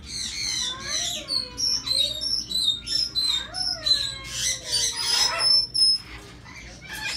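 Several caged pet birds chirping and whistling, many short chirps with overlapping rising and falling whistled notes; the calling eases off near the end.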